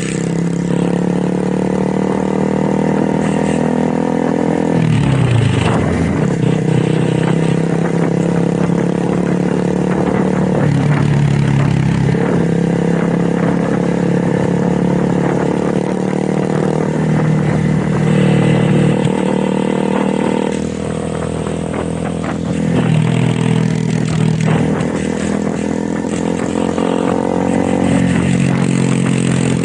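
Motorcycle engine and exhaust running under way, its pitch dropping and climbing again several times as the revs change.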